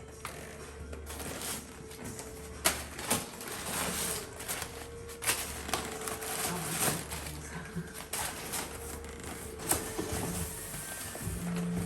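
Handling noises from unboxing a motorcycle exhaust: scattered sharp clicks and knocks with rustling of packaging, over background music.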